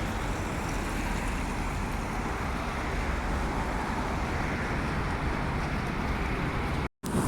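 Steady rushing wind and road noise of a bike ride, heaviest in the low rumble, which cuts out for a split second near the end and comes back a little louder.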